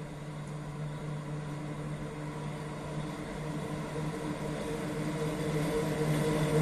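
Electric locomotive hauling a passenger train, approaching on the track: a steady low hum with overtones and rolling noise, growing steadily louder.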